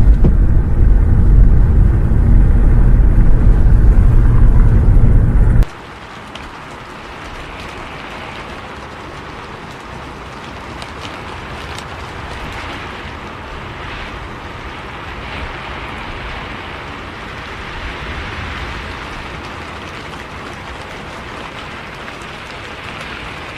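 Loud, steady low rumble of a bus on the road that cuts off suddenly about six seconds in, leaving a steady hiss of rain on the bus for the rest.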